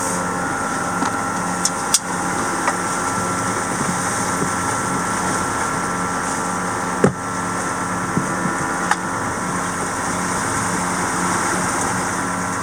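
Steady hum of a running motor, with a few sharp knocks about two, seven and nine seconds in as a wrench works at a stuck watermaker filter housing.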